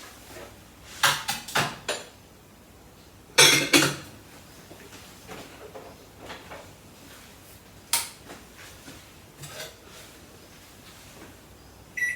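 A lidded bowl being handled and set into a microwave oven: clinks and knocks about a second in, a louder clatter at about three and a half seconds, and a sharp click near eight seconds. Near the end comes a short high beep from the microwave's keypad.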